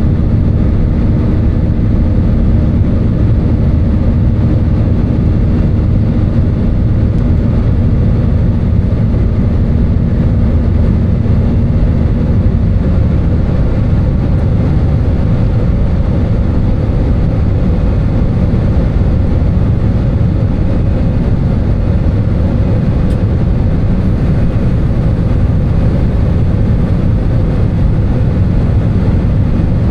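Airbus A320 cabin noise heard from a window seat: a loud, steady drone of the engines and airflow, with faint steady hums, two of which stop about a third of the way through.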